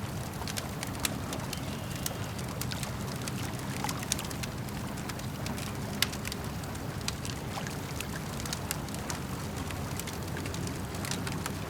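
Campfire crackling, with scattered sharp pops and snaps (the loudest about a second in and around six seconds in), over a steady low wash of lake water lapping.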